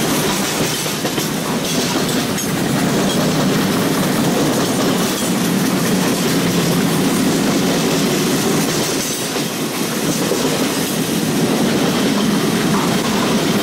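Empty covered hopper cars of a freight train rolling past steadily at about 27.5 mph, the wheels clattering on the rails.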